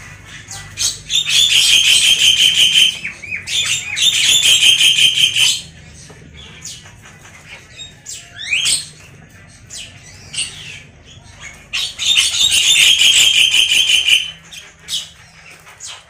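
Caged songbird giving loud, rapid chattering calls in three bursts of about two seconds each, with a short rising whistle between them.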